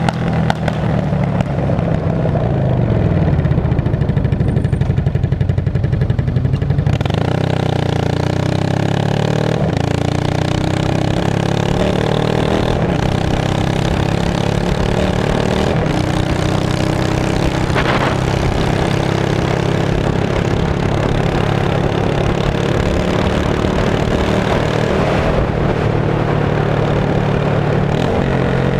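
2002 Yamaha V-Star 650's straight-piped V-twin running loud, its engine speed rising and falling. A single sharp crack comes about two-thirds of the way through.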